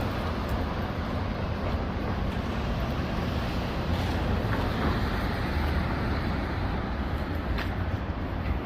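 Steady low rumble of a vehicle, with a constant hiss and a few faint clicks.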